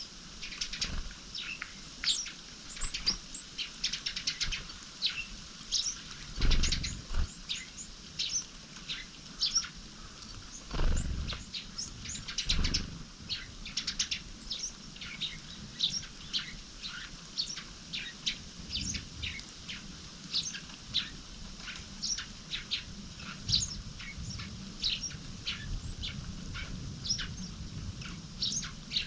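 Small wild songbirds chirping: many short, high calls come close together throughout. Three low thumps break in about a third of the way through.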